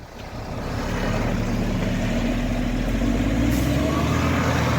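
A heavy logging truck's diesel engine revs up over the first second and is held at high revs under load, rising slightly in pitch in the second half.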